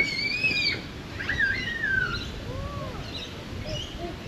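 Birds calling outdoors: a few short, high, swooping calls, the loudest at the start, then a couple of lower, briefer notes.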